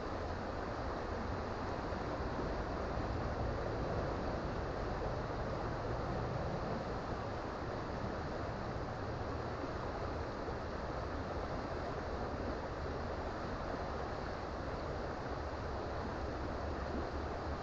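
Creek water running, a steady, even rush with a low rumble underneath.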